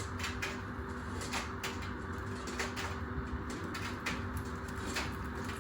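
Washing machine running with a steady hum and low rumble while something thrown into the drum knocks against it at irregular intervals, a few times a second.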